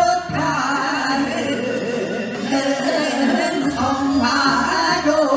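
Korean Gyeonggi folk song (Gyeonggi minyo) being sung, the voice holding long, wavering notes.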